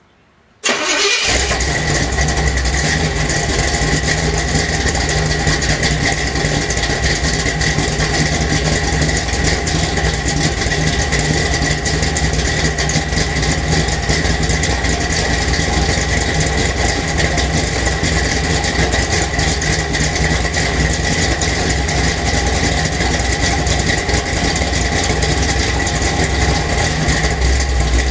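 A 406 small-block Chevy V8 breathing through headers and a Flowmaster exhaust fires up about a second in, with no long crank. It settles straight into a loud, steady, rough idle.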